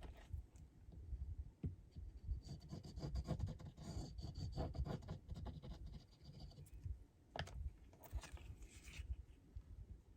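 Paper strips being handled and glued onto a card: scratching and rubbing of paper on paper and the work surface, with a few light taps.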